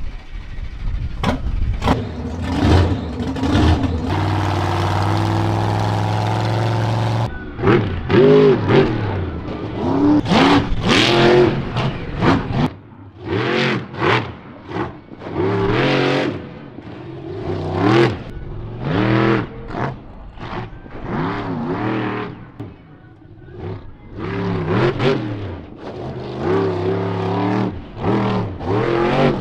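Monster truck engine revving over and over, its pitch climbing and dropping about once a second, with a steady held run a few seconds in.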